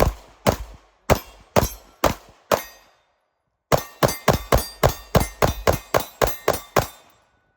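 A 2011-style pistol firing: about six shots at roughly two a second, a pause of under a second, then a fast string of about fifteen shots at roughly four a second.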